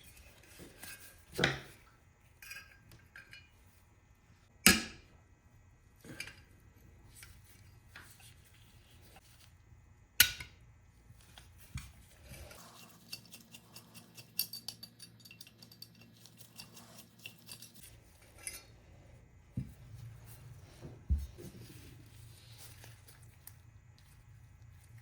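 Metal hand-plane parts clinking and knocking as they are handled and set down: three loud sharp clinks, with lighter clinks and scraping in between and a run of quick light ticks in the middle.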